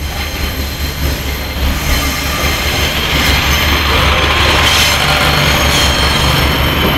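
Class 142 Pacer diesel multiple unit running across a level crossing, growing louder as it passes: a low pulsing diesel drone under rolling wheel noise, with steady high-pitched wheel squeal over the top.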